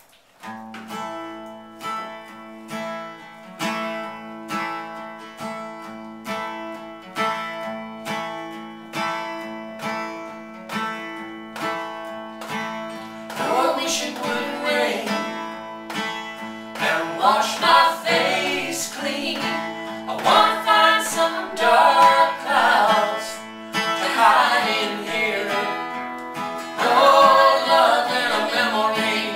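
Acoustic guitar intro of a country song: steady, evenly picked chords. About halfway in, a louder melodic lead with sliding, wavering pitch comes in over the guitar.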